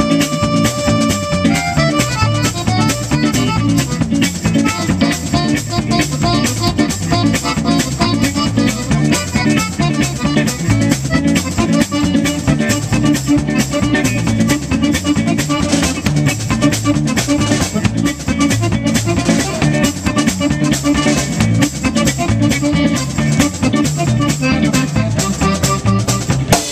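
Live band playing an instrumental passage: drum kit keeping a steady, busy beat under guitar, with no singing.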